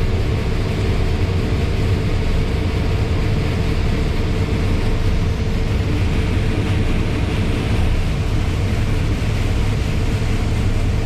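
Heavy farm machinery running steadily, a constant low engine drone.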